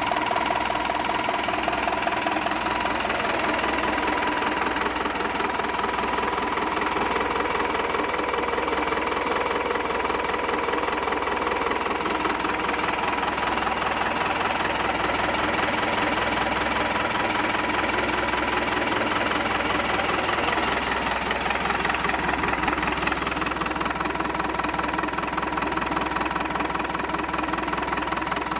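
Yanmar 4LH-WST four-cylinder marine diesel engine running steadily with a fast diesel clatter and a steady high whine.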